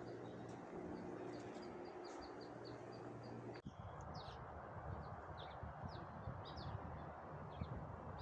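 Small birds chirping: a quick run of short high chirps in the first couple of seconds, then scattered falling chirps. A steady low engine-like hum sits under them until it cuts off abruptly about three and a half seconds in, leaving a low rumbling noise.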